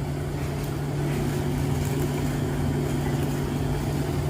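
Steady machine hum with a constant low pitch over an even background noise.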